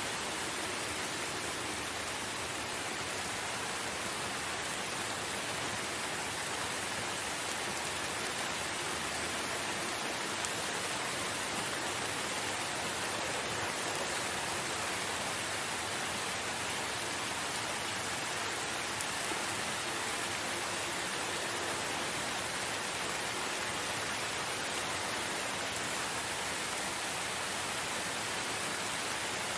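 Steady rain falling in a forest, an even hiss of many drops with no letup.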